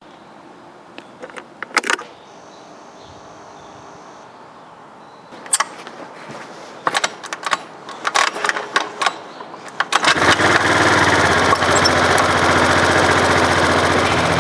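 A few sharp clicks and knocks, then about ten seconds in a motor starts and runs loudly and steadily with a fast, even pulse.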